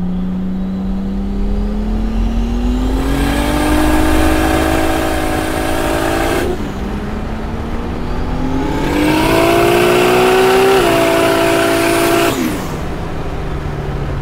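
Built single-turbo 2JZ-GTE inline-six on high boost pulling at full throttle. The engine note climbs for about six seconds and drops sharply at the shift into second of the two-speed Powerglide. It then climbs again and falls away as the throttle lifts near the end.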